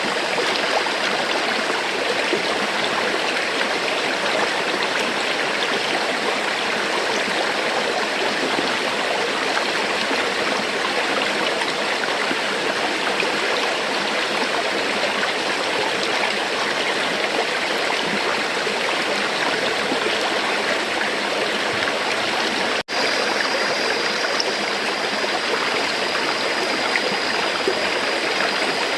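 River water flowing over rocks, a steady, even rush with light gurgling. Late on, the sound cuts out for a split second and then resumes unchanged.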